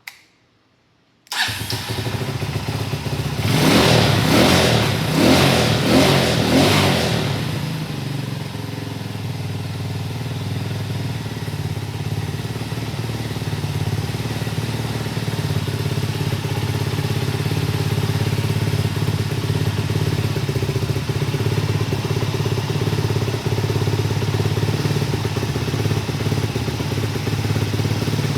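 Honda FTR223's single-cylinder four-stroke engine, breathing through a Supertrapp aftermarket muffler, starting up abruptly about a second in. The revs are blipped about four times, then it settles into a steady idle.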